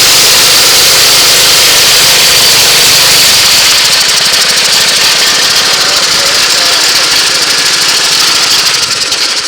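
Puma PUK5508G portable twin-tank air compressor running steadily on its small petrol engine. About four seconds in the sound eases slightly and a rapid fine rhythm comes in.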